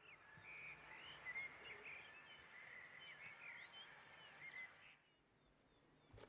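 Faint birdsong: many quick chirps and short whistled glides over faint outdoor background noise, dying away about five seconds in.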